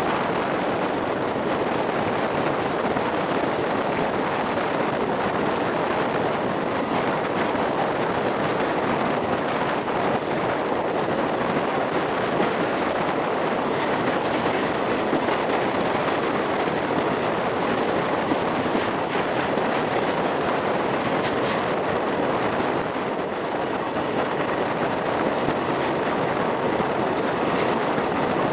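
An express passenger train's wheels and coaches running at speed through a rail tunnel: a steady rumble of wheels on rail that holds level throughout.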